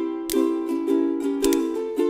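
Strummed chords on a small plucked string instrument, played in a steady rhythm with the chord changing every half second or so: the instrumental lead-in to the song.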